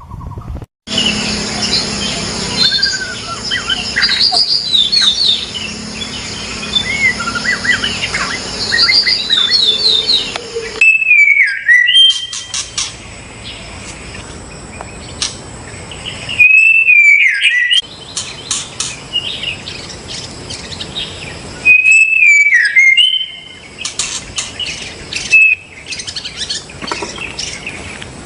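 White-rumped shama singing: varied rapid whistled phrases and trills, then a loud slurred whistle that falls in pitch, repeated about four times. The song cuts off abruptly several times.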